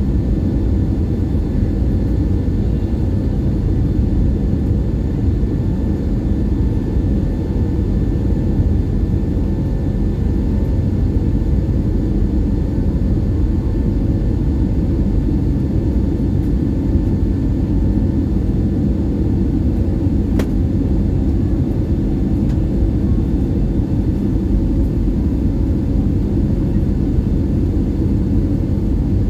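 Airbus A320 cabin noise: a steady, loud low rumble of the jet engines and airflow, with faint steady engine tones above it. A single sharp click about twenty seconds in.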